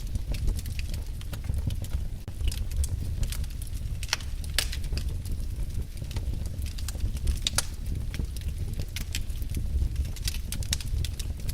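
Fireplace fire crackling: irregular sharp snaps and pops over a steady low rumble of the burning fire, with a couple of louder snaps about halfway through.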